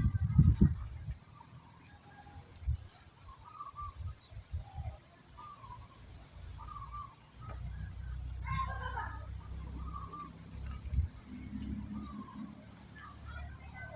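Small birds chirping, with two rapid high-pitched trills, one about three seconds in and one about ten seconds in. Low knocks and bumps, loudest near the start.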